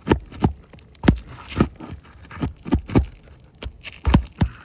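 Irregular sharp knocks and scrapes on a three-tab asphalt shingle roof as a shingle is worked loose and lifted, about a dozen in a few seconds.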